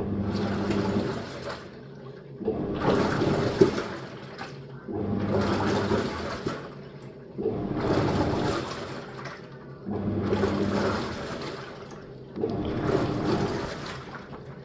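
Living & Co 5.5 kg top-load washing machine agitating a load: the wash plate's motor hums and churns the clothes through the water in strokes of about a second and a half, with a short pause between each, about six strokes in all.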